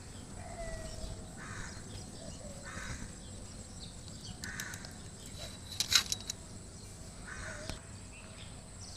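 Four short, harsh bird calls spaced a second or two apart over a steady outdoor background, with one sharp click about six seconds in.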